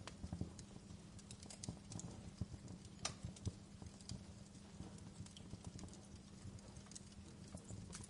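Wood fire crackling in a fireplace: irregular sharp pops and snaps, the sharpest about three seconds in, over a steady low hum.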